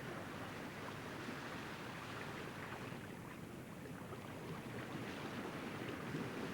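Steady rush of wind and sea water, the even wash of a sailing yacht underway.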